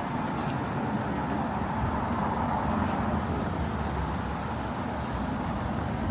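Road traffic: a motor vehicle passing, its engine and tyre noise swelling to a peak about three seconds in and easing off slightly after.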